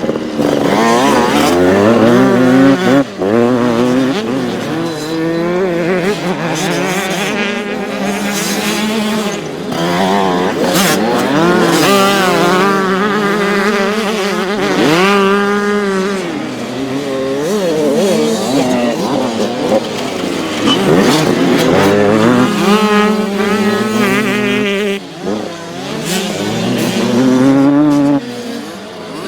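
Several youth motocross dirt bikes racing, their engines revving up and dropping back over and over as they accelerate, shift and brake, with several engine notes overlapping.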